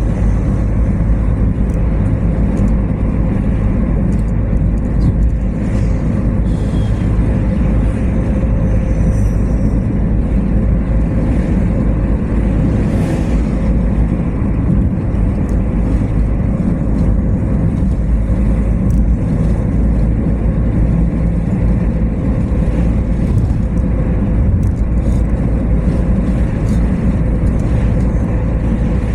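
Car driving at a steady speed: a constant low engine and road rumble with a faint steady hum, no change in pace.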